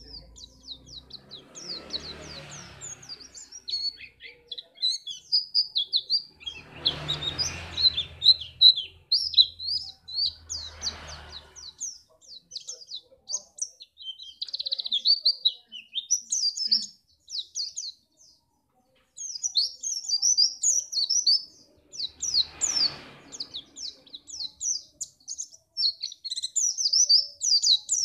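A white-eye (pleci) singing a fast, continuous chattering song of high chirps, with a brief pause about two-thirds of the way through. Four short rushing noises, like wind or handling, come through at about 2, 7, 11 and 23 seconds.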